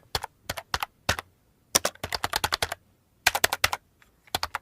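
Computer keyboard typing: sharp key clicks in irregular runs, with the longest quick run in the middle and short pauses between clusters.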